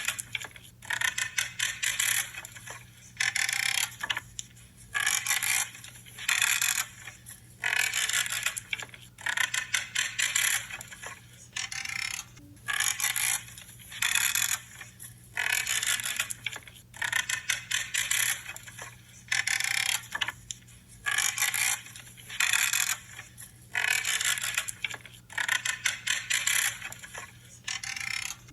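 Pruning shears cutting through branches over and over, a crunching, creaking snip about once a second.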